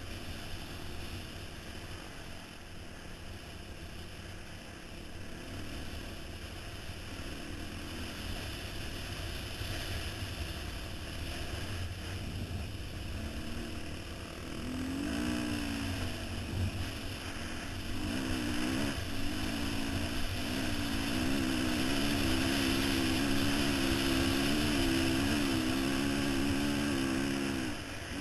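Dirt bike engine running, faint under wind hiss at first, then growing louder from about halfway, with its pitch rising and falling as the throttle is worked over the last ten seconds.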